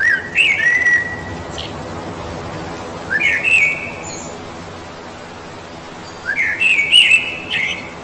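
A songbird singing: three short whistled phrases about three seconds apart, each opening with a quick rising note and ending on a brief held note.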